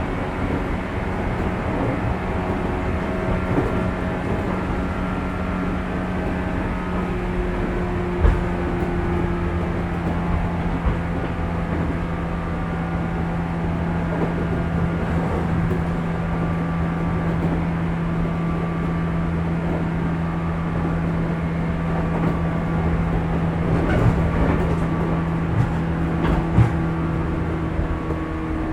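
Running sound inside a JR Kyushu 415 series electric train, heard from a motor car under its pantograph: a steady hum of traction motors and wheels at speed, its main tone slowly falling. A few short knocks break in, the loudest about eight seconds in and near the end.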